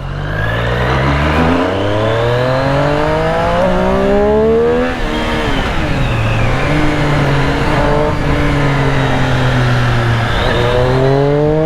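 Triumph Street Triple's three-cylinder engine being revved: the pitch climbs slowly for about five seconds, drops back, holds steady at a raised idle, and climbs again near the end. The owner suspects the idle has been set too high after the service.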